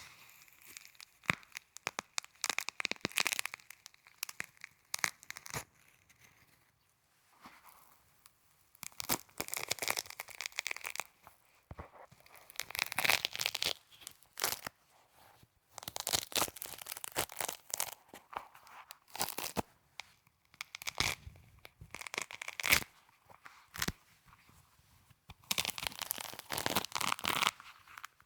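Snow being squeezed and crunched close to the microphone: dense crackling crunches come in bursts of a few seconds with short pauses between them.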